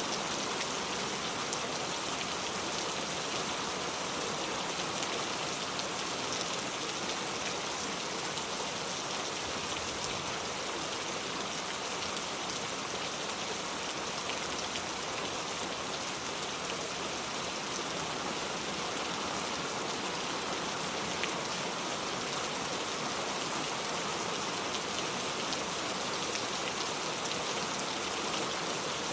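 Steady rain falling, with the patter of drops on surfaces and no change in intensity.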